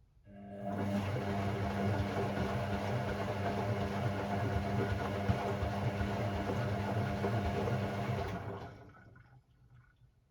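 Hoover Sportswear 1300 (AI130) washing machine on its Delicate 15 programme running for about eight seconds, a motor hum under water swishing. It starts just after the beginning and winds down near the end.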